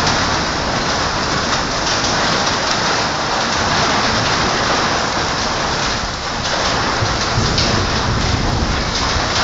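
Heavy rain falling, a steady dense hiss of drops striking the ground and other surfaces.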